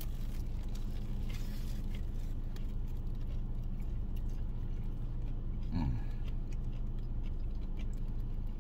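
A person chewing a mouthful of burger, with faint wet mouth clicks, over a steady low hum inside a car cabin. A brief low hum of the voice, falling in pitch, comes about six seconds in.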